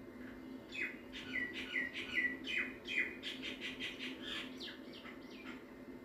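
A small bird chirping in a quick run of short, falling chirps for about five seconds, over a steady low hum.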